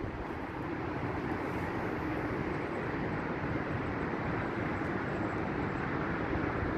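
Steady low rumble of the ES2G Lastochka electric train running on the track, with no distinct wheel clicks.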